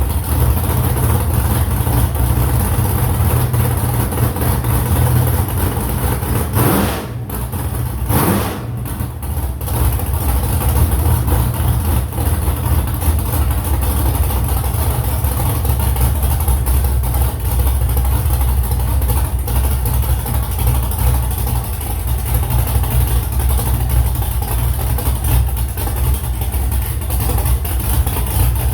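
Freshly built car engine running steadily, with two brief rising sweeps in pitch about seven and eight and a half seconds in.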